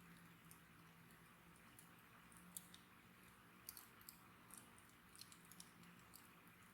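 Wood fire crackling faintly, with sparse, irregular small pops and ticks.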